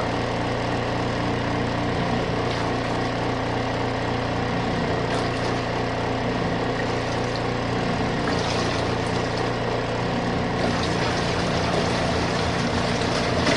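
Small portable RV washing machine running with water in the tub: a steady motor hum under a constant wash of water noise.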